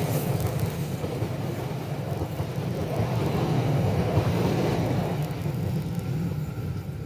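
Passenger train passing at speed: a steady rolling rumble of wheels on rail that swells around the middle and eases off toward the end.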